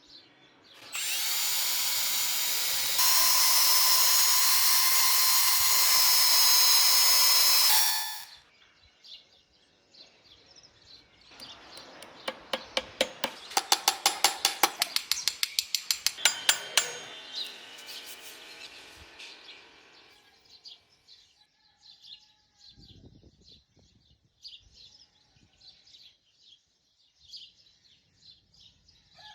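A power tool runs steadily for about seven seconds, getting louder and higher in pitch about two seconds after it starts, then stops. A few seconds later comes a quick run of sharp taps, about four a second, and faint bird chirps follow near the end.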